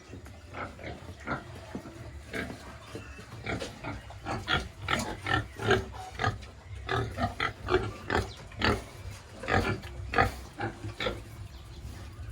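Pigs grunting and squealing, many short calls in quick succession, busiest in the middle.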